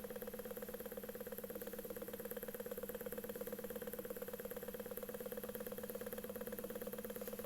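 Stirling engine running steadily, driving a small generator: a fast, even mechanical beat over a steady hum.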